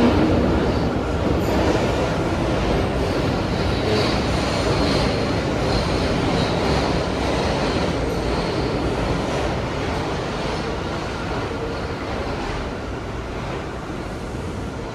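R179 subway train running between stations, heard from inside the car: a steady rumble of wheels on track, with a faint high wheel squeal a few seconds in. It grows a little quieter toward the end.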